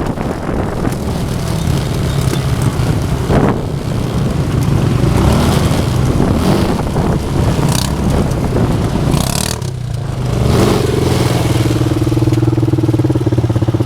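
Motorcycle engines running, with a rough noisy wash over them in the first part; from about three-quarters of the way through, one motorcycle idles steadily close by.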